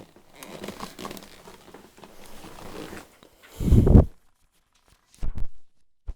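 Plastic scraping and rustling as the head of a Eureka vacuum cleaner is twisted and worked against its twist lock, which is jammed with dirt, then two dull thumps a little past halfway.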